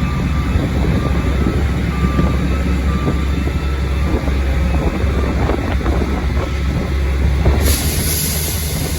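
Large farm tractor's diesel engine running steadily, with a strong low hum. A faint beep sounds about once a second for the first few seconds, and a hiss comes in near the end.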